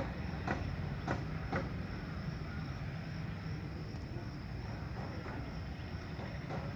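Workshop noise: a run of sharp knocks, about two a second, like hammer blows, in the first second and a half, with a few fainter knocks later, over a steady low rumble of machinery.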